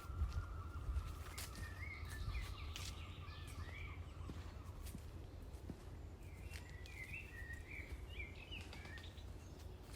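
Small woodland birds chirping in two short spells, over a steady low outdoor rumble with scattered light clicks, likely footsteps on the trail.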